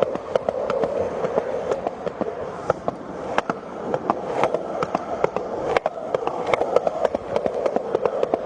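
Skateboard wheels rolling along a concrete sidewalk, a steady grinding roll with frequent irregular clicks and knocks as the wheels cross cracks, joints and pebbles.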